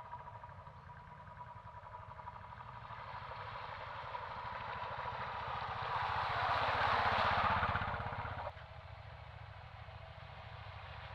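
Royal Enfield Classic 350's single-cylinder engine running on the move, the sound building with rising wind and road noise, then dropping back abruptly about eight and a half seconds in.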